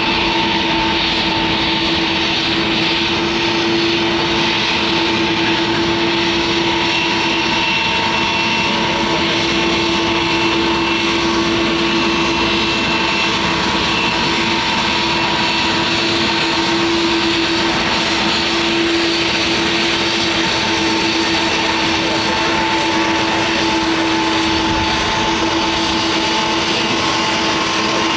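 Airliner engines running steadily close by: a broad rush with a steady hum and high whine that holds level throughout, without spooling up or down.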